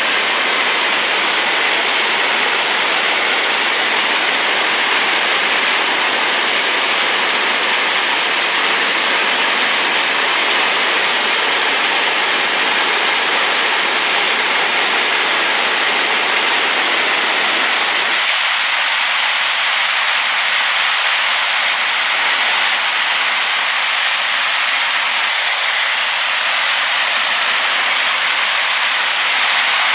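Waterfall on a river swollen by rain, crashing in a loud, steady rush of white noise. About eighteen seconds in, the deep rumble beneath the rush drops away abruptly.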